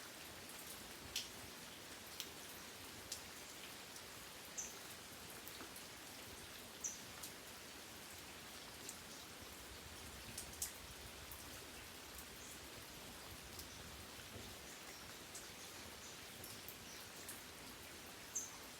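Steady light rain, with individual drops ticking sharply and irregularly on a nearby surface.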